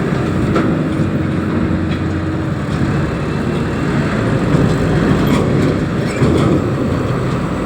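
Heavy diesel machinery running, a steady loud rumble with a few faint knocks.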